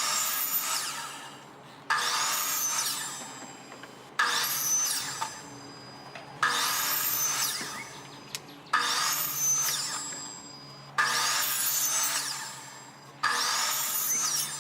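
Power saw making repeated 45-degree cuts in small cedar pieces, one cut about every two seconds. Each cut starts abruptly and fades over a second or so, with a high whine that rises and falls.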